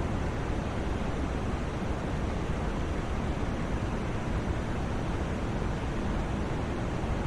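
Steady white noise for sleep: an even, unchanging hiss with no pitch or rhythm, heavier in the low end than in the highs.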